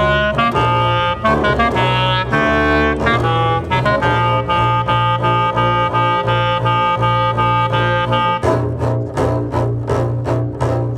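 Clarinet and double bass playing contemporary experimental music. The clarinet moves through several notes and then holds one steady, overtone-rich note over a sustained low note. Near the end the sound changes to a quick run of short repeated strokes, about three a second.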